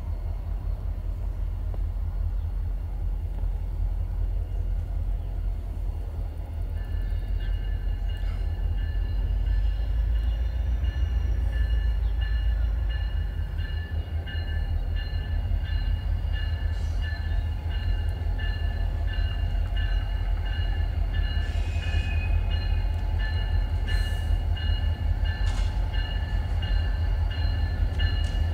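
An approaching BNSF freight train heard from trackside: a steady low rumble, joined about a quarter of the way in by a high ringing chord of several tones that pulses on and off at a regular rate and keeps going, a warning signal as the train nears.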